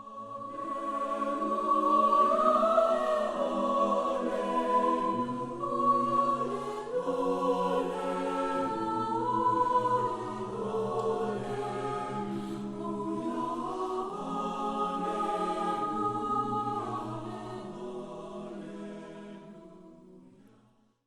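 Background music of a choir singing slow, held chords that shift every few seconds, fading in at the start and fading out near the end.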